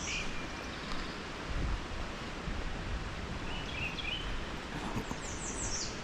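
Wild birds calling over steady wind noise: a few short chirps about four seconds in, and a quick run of high, falling notes near the end.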